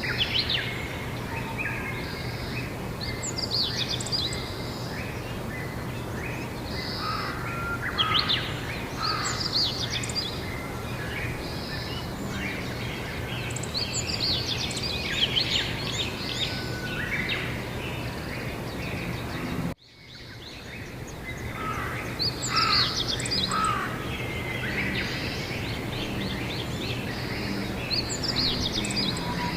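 Several birds singing and calling over steady outdoor background noise with a low hum. About two-thirds of the way through, the sound cuts out for a moment and fades back in.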